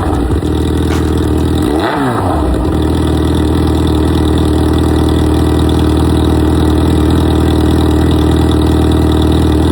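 Yamaha FZ6R's inline-four engine idling steadily, with a brief dip and recovery in pitch just at the start and again about two seconds in.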